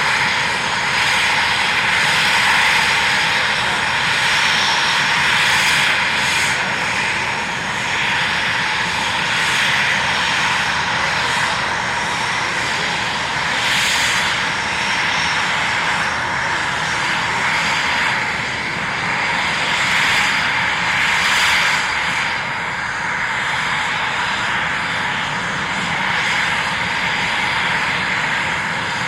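Aircraft engines running steadily: a constant loud noise with a steady high whine over it.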